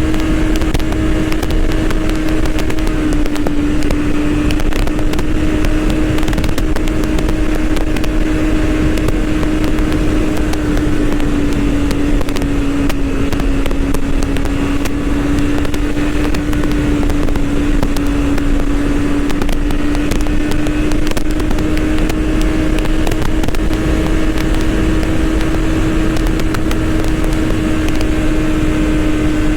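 BMW S1000RR superbike's inline-four engine running at a steady speed under way, its pitch holding nearly constant with only slight dips and rises, over a steady rush of noise.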